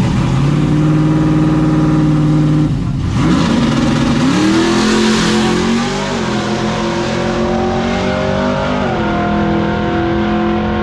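Drag-racing truck engine held at a steady high rev, then about three seconds in it climbs in pitch as it accelerates hard. Near the end the pitch drops at a gear change and then holds.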